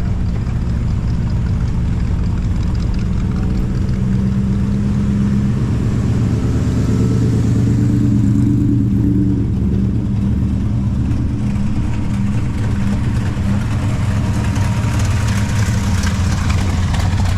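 A car engine running steadily at low speed, rising slightly around the middle before settling back.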